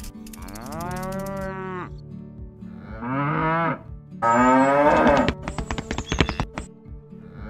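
Cows mooing three times: a long moo with a falling start, then two shorter moos, the last the loudest. Recorded cattle moos dubbed over the toy cows.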